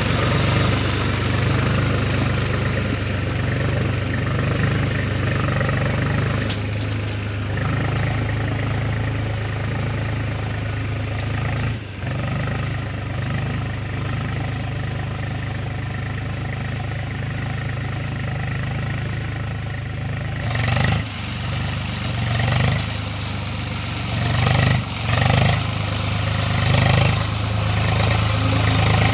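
Tractor engine running steadily with a low, even hum, with a few brief dips and swells in level near the end.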